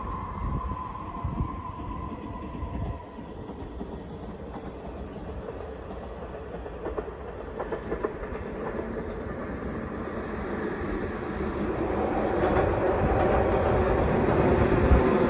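Train running on rails: a whine fades in the first couple of seconds, then the rumble and clatter of wheels on track grow steadily louder as a train approaches over the last few seconds.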